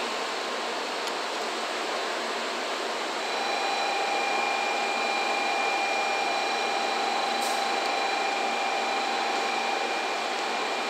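N700 series Shinkansen train creeping into the platform: a steady rushing hum, with a steady high whine joining about three seconds in.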